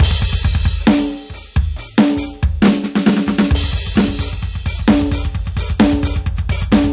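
Roland TD-17KVX electronic drum kit played, heard directly from its sound module: a crash cymbal and snare-and-kick beat, a quick run of drum hits about two to three seconds in, then a rapid stream of double bass drum strokes under a steady snare backbeat.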